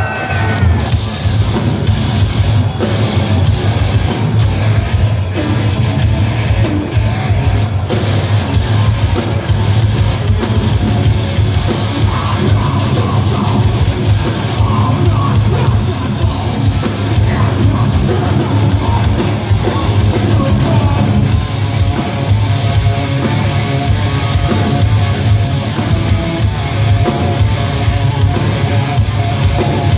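Heavy metal band playing live: distorted electric guitars, bass and drums, with shouted vocals.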